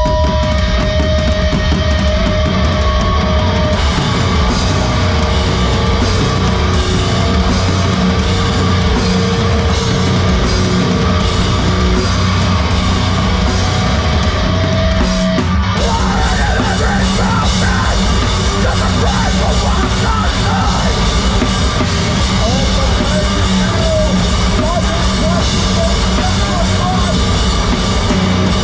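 Heavy rock band playing live and loud: distorted electric guitars, bass and a pounding drum kit. The texture of the music changes a little over halfway through.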